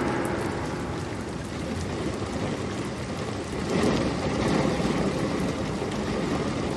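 Steady rain falling, an even hiss and patter that swells louder about four seconds in.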